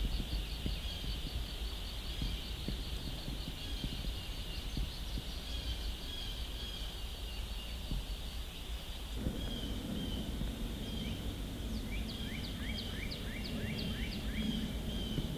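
Birds singing: repeated high chirping notes throughout, and a quick run of downward-sliding whistled notes about eleven seconds in. A low steady rumble lies underneath.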